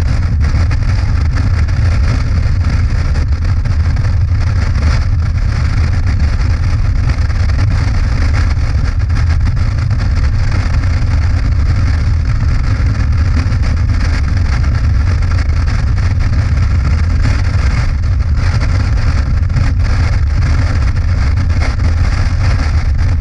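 Motorcycle cruising at a steady speed: a constant low engine rumble under an even rushing noise, with no change in pitch or level.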